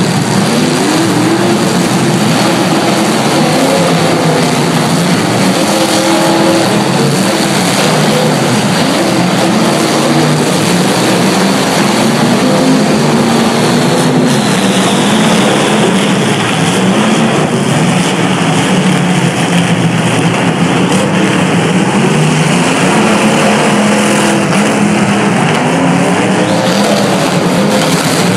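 Demolition derby cars' engines running and revving hard together in a loud, continuous din, several pitches rising and falling over one another.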